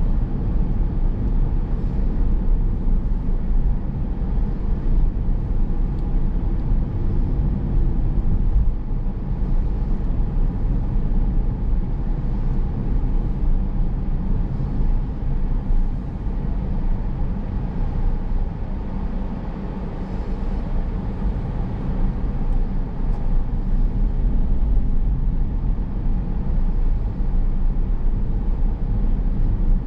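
Car driving: a steady low rumble of road and running noise, easing slightly about two-thirds of the way through.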